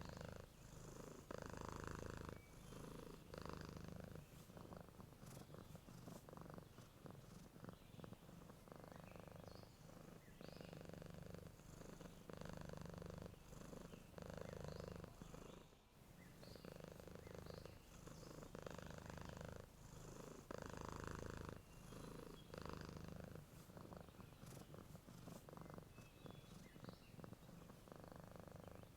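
Domestic cat purring softly while asleep, a steady low buzz that swells and eases with each breath every second or two.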